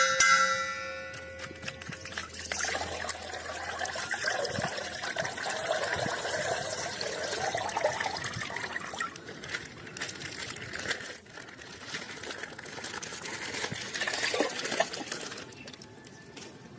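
Hands rustling and crinkling a toy's packaging while opening it, with many small plastic clicks and crackles. A chime sound effect fades out in the first two seconds.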